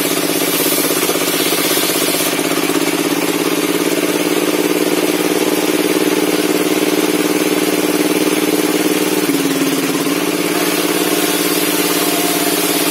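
Circular saw bench running steadily with a loud, even hum while working a log; its pitch dips briefly about nine seconds in.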